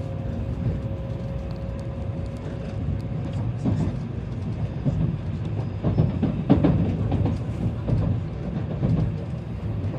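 Tokaido Shinkansen train running at speed, heard from inside the car as a steady low rumble. A steady whine fades out a little over three seconds in, and irregular knocks and swells come through the middle.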